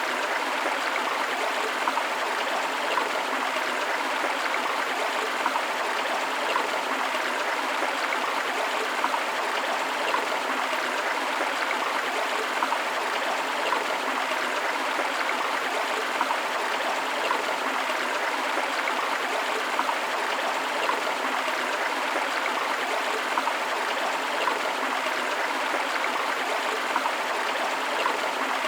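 Steady rush of a forest stream, water flowing and splashing over rocks with small bright trickles and splashes throughout.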